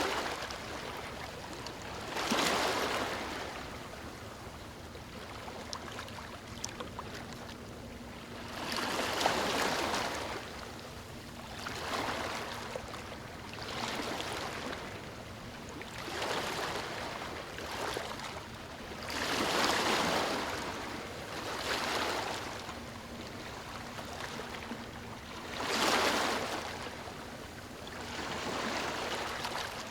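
Ocean waves washing onto a beach: a surge of surf swells and fades every two to four seconds over a steady hiss of water.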